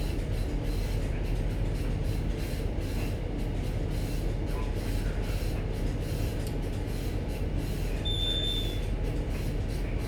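Ship's machinery giving a steady low mechanical drone and hum during berthing, with a brief high tone a little after eight seconds in.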